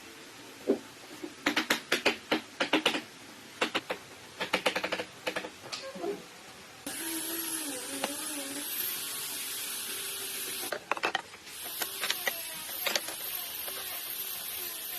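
A run of sharp taps and knocks, as of tools working wood, then a small electric power tool starts about seven seconds in and runs steadily with a wavering high whine. It stops briefly for a few more taps near eleven seconds, then starts again.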